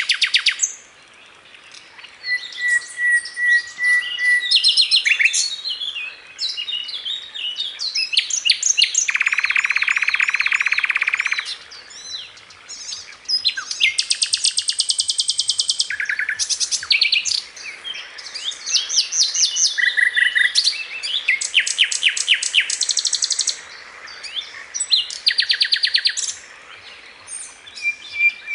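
A sikatan londo flycatcher singing actively in a long varied song: rapid trills, runs of quick repeated notes and short whistles, with a long buzzy rattle about nine seconds in.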